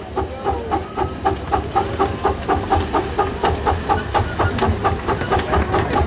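Miniature steam train running, with a steady rhythmic beat of about four a second over a low rumble and hiss.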